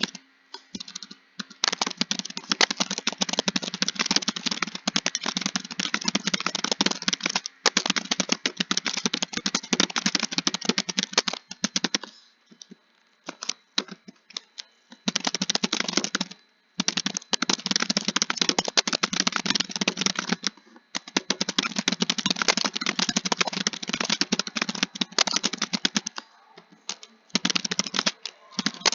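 Fast typing on a computer keyboard: dense runs of rapid key clicks broken by brief pauses, with a longer lull of only a few scattered keystrokes near the middle.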